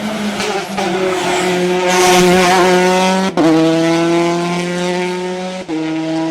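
Rally car engine accelerating hard, the pitch climbing and then dropping at two quick upshifts, about three seconds in and again near the end, the car growing louder as it approaches.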